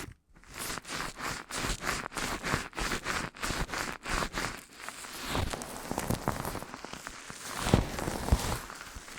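Dense, irregular crackling and rustling: many quick clicks and taps over a soft noisy hiss.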